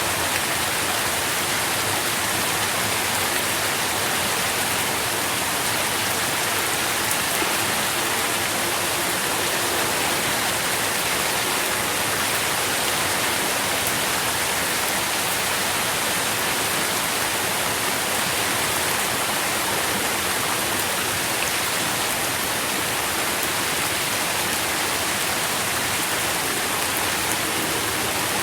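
Steady heavy rain falling, an even dense hiss of drops without a break or change.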